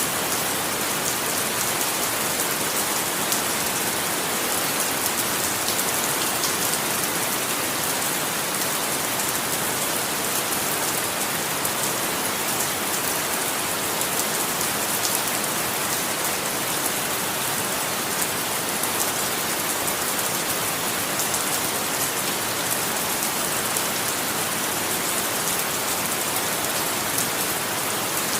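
Steady, unbroken rainfall pattering on a surface, with a dense hiss and many fine individual drop ticks.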